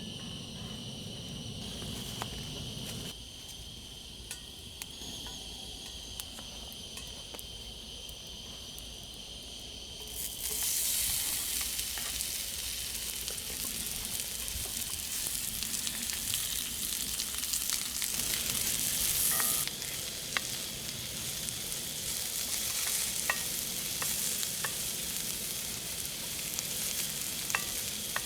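Food frying in a hot pan: a dense sizzling hiss with small crackles sets in suddenly about ten seconds in and keeps going. Before it, insects chirr steadily.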